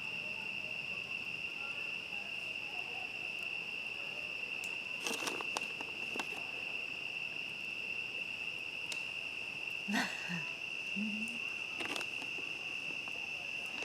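Steady chorus of crickets, one continuous high trill, with a few sharp crackles and pops from a wood campfire around the middle and again near the end.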